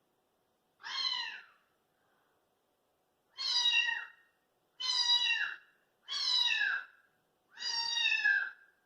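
Recorded domestic cat meowing five times. Each meow is under a second long and falls in pitch, with short silences between, and the first is quieter than the rest.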